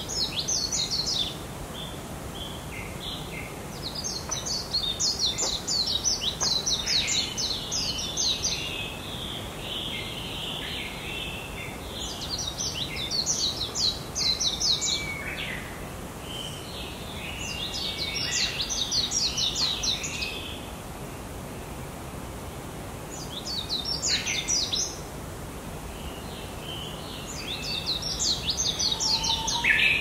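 A songbird in woodland singing a rapid, high twittering phrase of a few seconds, repeated about every five seconds, over a steady background hiss.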